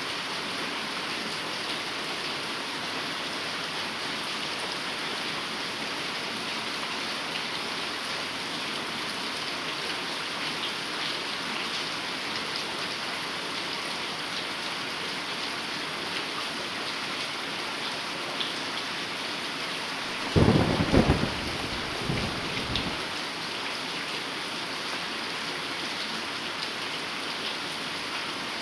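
Heavy rain falling steadily, with a short, loud crack and rumble of thunder about twenty seconds in.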